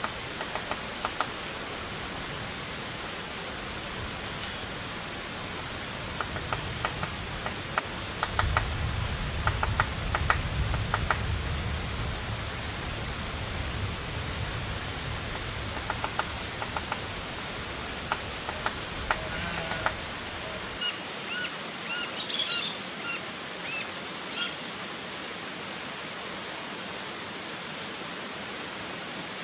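Steady outdoor hiss with faint short bird notes. About two-thirds through, the background changes and a run of loud, sharp bird calls comes in for a few seconds.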